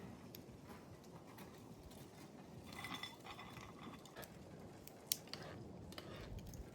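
Faint scattered clicks and taps, with a short cluster of clinks about three seconds in and one sharp click just after five seconds.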